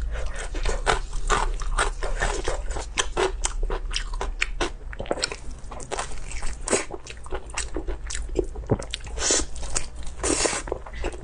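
A person chewing and biting food, with wet mouth clicks and smacks coming thick and irregular throughout, and a few louder noisy bursts near the end.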